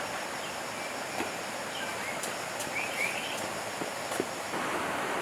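Outdoor ambience: a steady hiss of background noise with a few short bird chirps, most clearly two to three seconds in, and a few light clicks.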